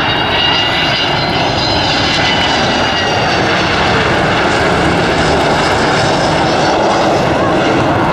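Boeing 727 jet airliner's three Pratt & Whitney JT8D turbofans running loud and steady as it flies by, a dense rushing noise with high whining tones that slowly fall in pitch in the first few seconds.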